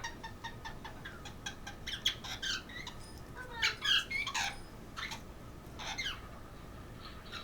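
Red-lored amazon parrot giving a series of short squeaks and chattering calls, the busiest stretch a few seconds in and a last call near the end.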